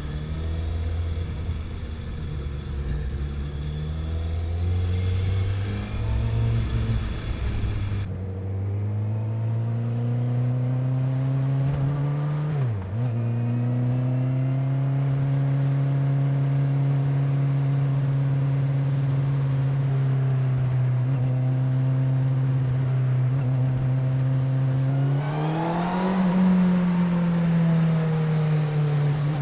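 Honda CBR1000RR Fireblade's inline-four engine under way: revs climb about eight seconds in, drop sharply for a moment at a gear change, then hold at a steady pitch, rising and easing again near the end.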